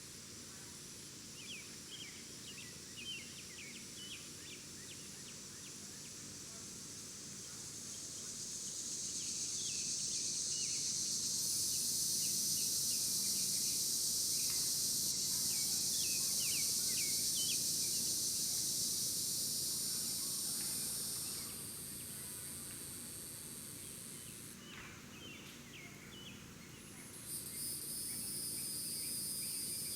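Outdoor ambience of insects buzzing in a steady, very high-pitched drone that swells about eight seconds in, drops away about two-thirds of the way through, and comes back near the end. Small birds give short chirps throughout.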